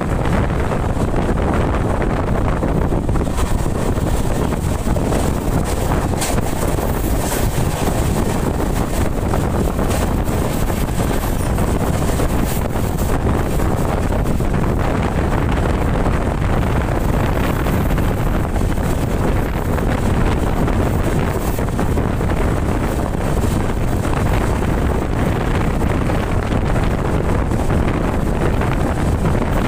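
Steady rumble of the Udyan Express passenger train running at speed, heard from on board, with heavy wind buffeting the microphone.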